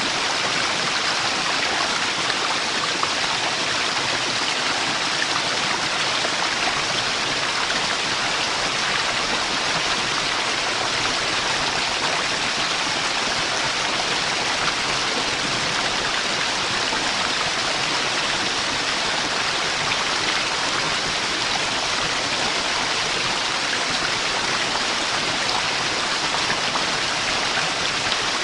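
A waterfall's rushing water, a steady, unbroken rush with no pauses or changes.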